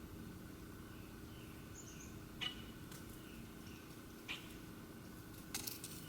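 Wild animal calls: a sharp, short chip repeated about every two seconds over a faint, steady run of soft descending notes, with a low steady hum beneath. A quick cluster of clicks comes near the end.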